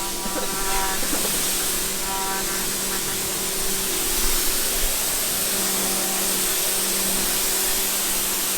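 Pressure washer spraying water: a steady hiss of spray over the steady hum of its motor, with a couple of brief high-pitched tones in the first three seconds.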